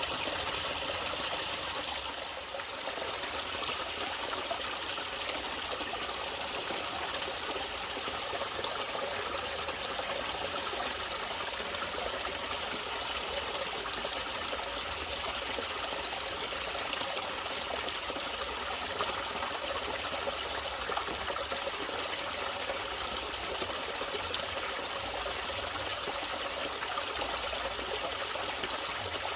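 Natural running water trickling steadily, like a small stream.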